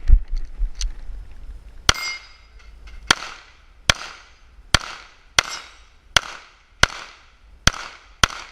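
Nine 9 mm pistol shots from a Glock 19 in a string at an IPSC stage, starting about two seconds in and spaced roughly two-thirds of a second to a second apart, each with a short echo. Low rumble of handling or wind on the microphone in the first second.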